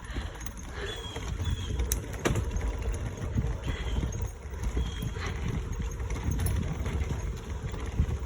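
Bicycle tyres rolling over the planks of a wooden boardwalk: a steady low rumble broken by uneven knocks as the wheels cross the boards, with a couple of sharp clicks about two seconds in. The ride is awful bumpy.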